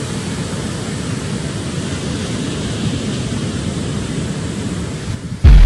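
Steady rushing roar of ocean surf with wind-like noise on the microphone. Near the end it cuts off and a music track comes in with a sudden loud hit.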